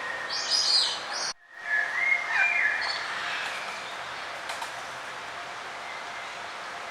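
Songbirds chirping and singing over a steady outdoor hiss, with quick high calls near the start and again about two to three seconds in. The sound cuts out abruptly for a moment about a second and a half in.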